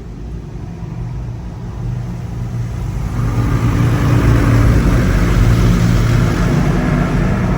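PDQ LaserWash G5-S touch-free car wash machine running, a low mechanical hum under rushing spray noise. It grows steadily louder over the first few seconds, then holds steady.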